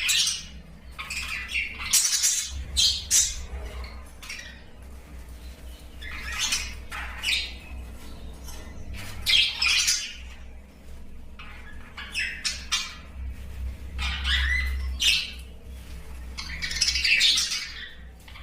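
A colony of lovebirds and budgies in an aviary calling: sharp squawks and chirps that come in short bursts every second or two, over a low steady hum.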